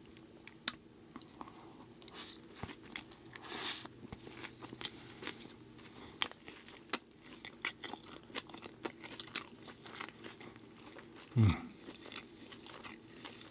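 Close-up chewing and biting of an Impossible Burger on a bed of salad greens: scattered soft crunches and wet mouth clicks. A short low voiced 'mm' comes near the end.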